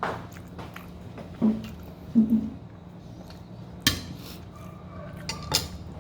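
Cutlery clinking against a plate during a meal, a few sharp clicks, about four seconds in and again near the end. About a second and a half in and again about two seconds in come two short, low vocal hums from the eater, the loudest sounds here.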